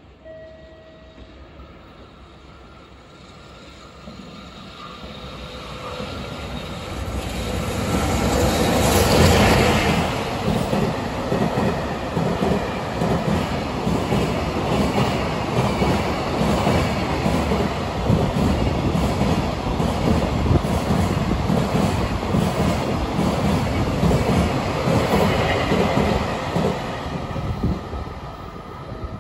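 An EF65 electric locomotive hauling a container freight train through a station without stopping. The sound builds for several seconds and is loudest as the locomotive passes, about nine seconds in. A long line of container wagons then rumbles past steadily, easing off near the end as the last wagon goes by.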